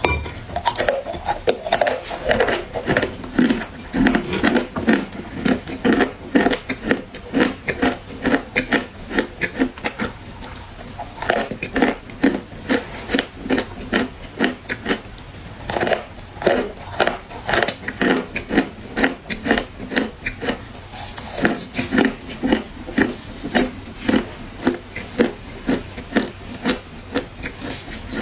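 Dry clay being crunched and crumbled: rapid, irregular crackles, several a second, easing off briefly about ten seconds in before picking up again.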